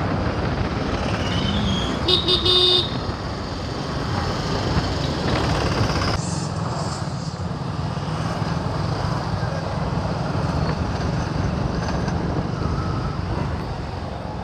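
Motorcycle riding along a road, with a steady engine and wind rumble. A vehicle horn honks briefly about two seconds in.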